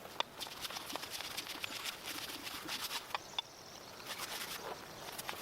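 Quiet outdoor ambience of many small scattered clicks and crackles, with a couple of short high bird chirps.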